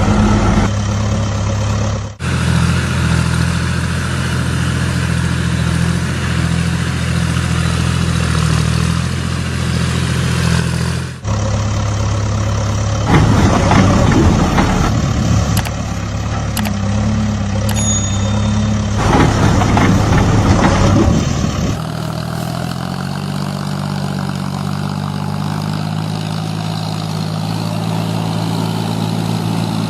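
Tractor engine running steadily at idle, in several recordings spliced together with abrupt cuts about two, eleven and twenty-two seconds in, and a couple of louder surges in between.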